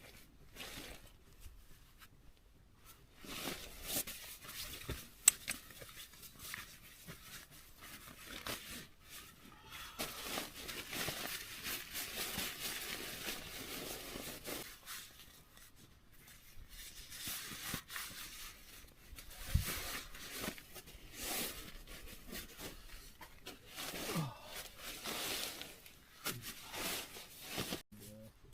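Irregular rustling and crinkling handling noises with scattered sharp clicks, denser for several seconds in the middle.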